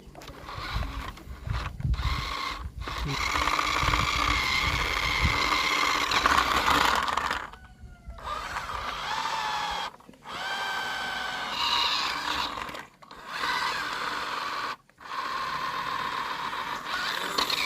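Small electric motor and gearbox of a radio-controlled toy truck whining, cutting out abruptly about four times and picking up again each time with a rising pitch. A low rumble runs under the whine for the first six seconds.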